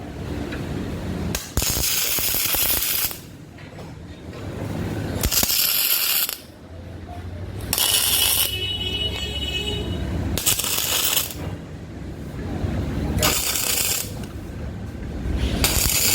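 CO2-shielded MIG welding arc crackling in short bursts as the torch trigger is pulled and released, about six welds of half a second to a second and a half each, with a low hum between them.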